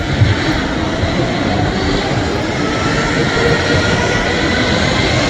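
Airbus A321neo's Pratt & Whitney PW1100G geared turbofan engines running loud and steady, a whine in them rising slowly in pitch over a dense rushing roar.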